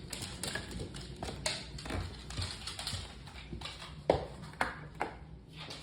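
Irregular footsteps clicking and tapping on a hard floor, a few sharp knocks spaced unevenly, the loudest about four seconds in.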